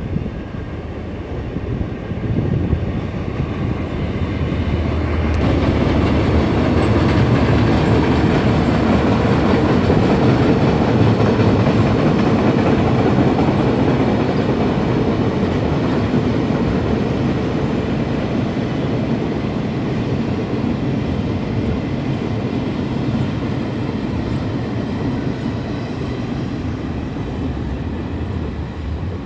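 Long freight train of loaded flatcars rolling past on a railway bridge: a steady rumble and clatter of steel wheels on the rails. It builds over the first few seconds, is loudest through the middle, then eases slightly.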